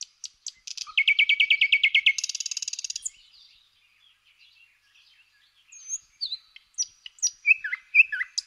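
Songbirds singing: a fast trill of about a dozen repeated high notes ending in a buzzier phrase, then, after a short lull, scattered chirps and whistles.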